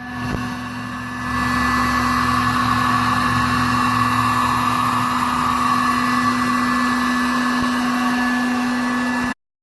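A small electric fan motor running steadily with a constant hum and a whir. It builds up over the first second or so and cuts off suddenly near the end.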